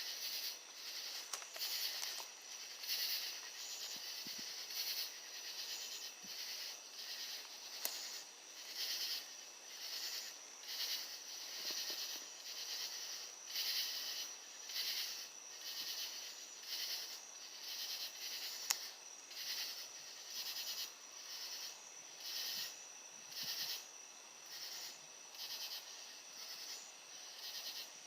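Faint chorus of crickets and other insects: a steady high trill with louder chirping pulses about once a second.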